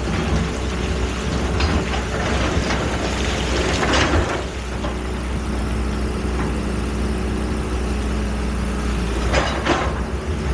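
Excavator's diesel engine running steadily, with intermittent clanks and scrapes, the strongest about four seconds in and two close together near the end.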